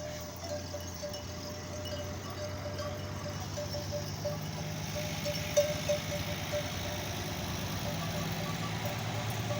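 Metal bells on walking camels clinking irregularly, with a few louder strikes near the middle, over a low vehicle engine hum that grows louder through the second half.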